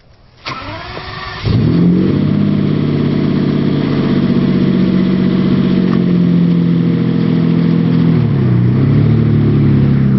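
Lamborghini sports car engine starting: a click, a second of cranking, then it catches about a second and a half in and runs steadily. Near the end the pitch dips and then rises as the car revs and pulls away.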